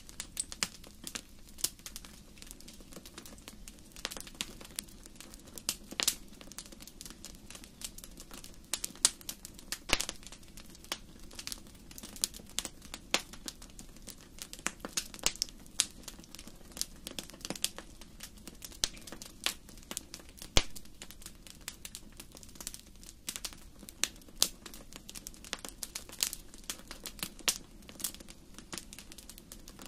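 Fire crackling in a fireplace: irregular sharp pops and snaps, several a second, over a steady low rumble of the flames.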